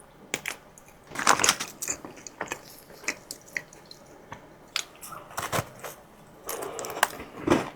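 A person eating close to the microphone: irregular wet chewing and mouth clicks with a few louder bites, the loudest near the end.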